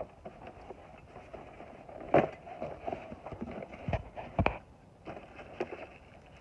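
Rummaging through items in a dumpster: a few knocks and clunks of things being handled, the loudest about two seconds in and two more around four seconds.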